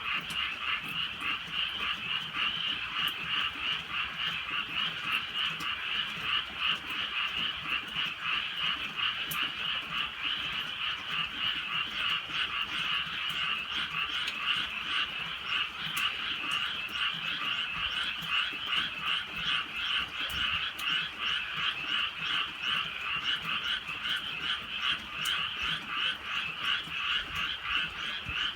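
A dense chorus of many frogs calling at night, fast overlapping rattling croaks that never pause, with scattered faint ticks of drizzle dripping.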